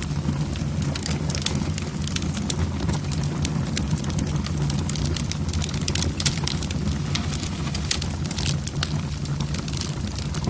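Wood fire burning in a fireplace, the logs crackling with many irregular sharp pops over a steady low rumble.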